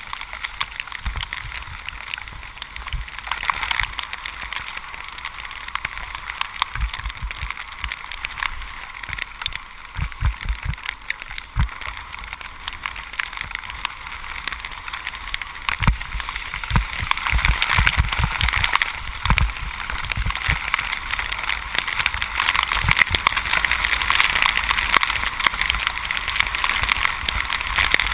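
Bicycle tyres hissing on a wet road during a ride in the rain, the spray noise growing louder in the second half, with bursts of low wind rumble on the microphone.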